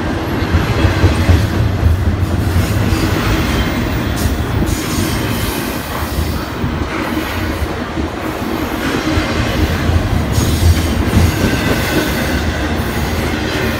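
Double-stack intermodal well cars of a Norfolk Southern freight train rolling past at close range: a steady, loud rumble of steel wheels on rail with clattering, swelling and easing slightly as the cars go by.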